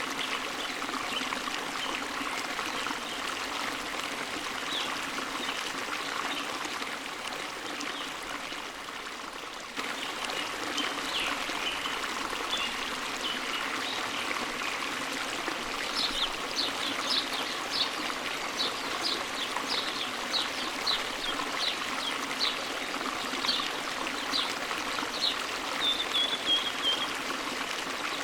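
A forest stream runs steadily. From a little past halfway, a bird repeats short high chirps at about two a second, ending in a brief trill.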